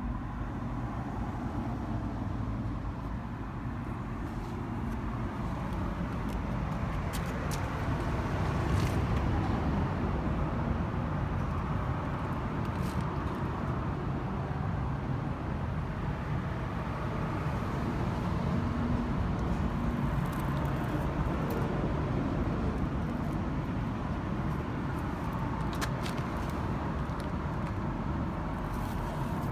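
A car running with a steady low rumble, with a few faint clicks over it.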